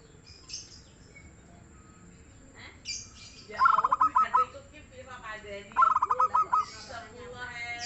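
Zebra dove (perkutut) singing: two phrases of rapid rolling pulsed notes, the second about two seconds after the first, with fainter bird calls between them.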